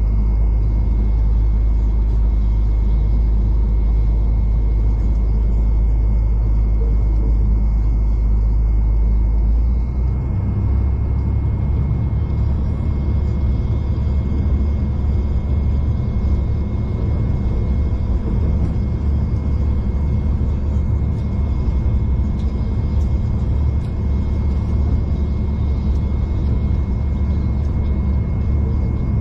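V/Line diesel passenger train running, heard from inside the carriage: a steady low rumble with a faint high whine, the low drone stepping up a little in pitch about ten seconds in.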